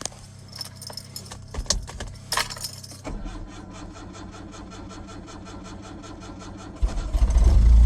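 Keys rattling in the ignition, then the starter cranks the cold 1984 Nissan's carbureted engine in a steady rapid rhythm for about four seconds. Near the end it catches and runs loudly on choke: a cold start at 14°F.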